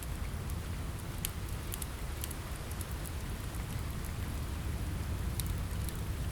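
Steady rain with a deep low rumble, mixed with a crackling wood fire: scattered sharp crackles about a second in, around two seconds and again near the end.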